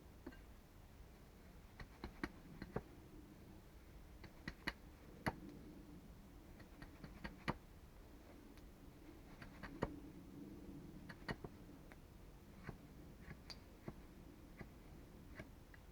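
Faint, irregular light clicks and snaps, a few of them sharper, scattered through the stretch at no steady rhythm.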